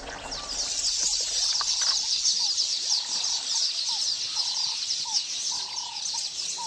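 Dense chorus of rapid, high bird chirps, with short lower call notes repeating from about a third of the way in.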